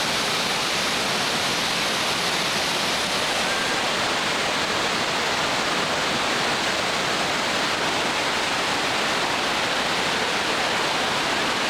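Whitewater rapids on a river rushing steadily, an even, unbroken wash of water noise.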